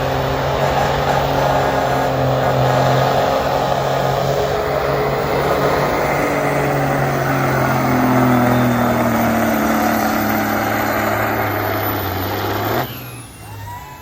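Diesel semi truck engine running hard at full throttle on a pull down the track, its pitch sagging a little as the load builds. The sound cuts off sharply near the end.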